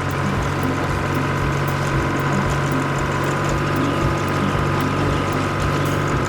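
A steady engine hum with a regular low pulse a few times a second, like a machine running at idle.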